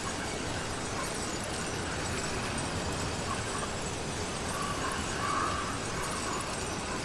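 Steady rushing noise of a motorized bicycle on the move, with a few brief squeals about three to five seconds in.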